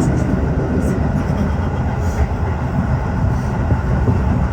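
Tokyo Metro 15000-series subway train running at speed, heard from inside the leading car: a steady, loud low rumble with a few faint ticks now and then.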